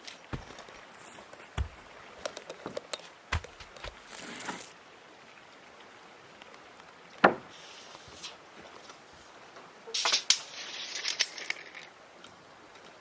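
Irregular knocks and clicks, with one sharp, loud knock about seven seconds in and a short spell of clattering and rustling near the end.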